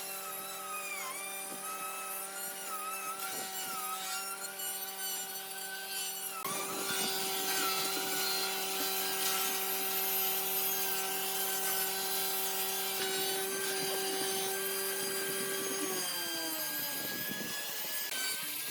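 Electric woodworking power tool running with a steady hum while cutting wood. It gets louder about six seconds in, and its pitch slides down near the end.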